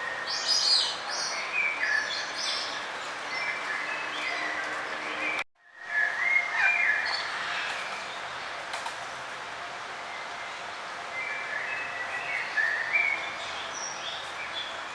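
Songbirds chirping and trilling in short high-pitched phrases over a steady background hiss. The whole sound drops out for a moment about five and a half seconds in.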